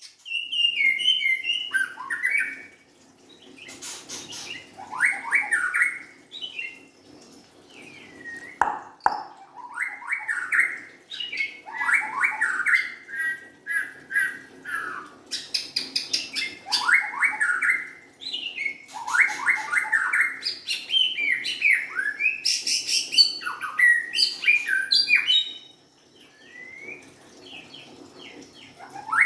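White-rumped shama singing: a run of varied, rapid whistled phrases, each a second or two long and separated by short pauses, with sweeping notes that often fall in pitch.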